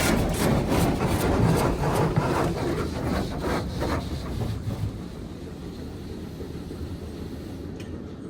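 Futura Revolution touchless car wash machine working over the car, heard from inside the cabin as a loud rushing wash with uneven hissing surges that gradually fade, as if the equipment is moving away.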